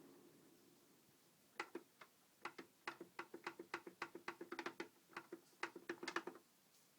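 Holmes humidifier clicking: a rapid, irregular run of sharp ticks over a faint steady hum, starting about a second and a half in and stopping shortly before the end.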